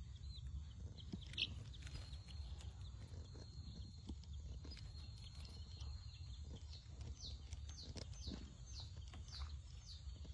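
Brooding chicks peeping: short, high, falling chirps, scattered at first and coming about two a second in the last few seconds, over a low rumble.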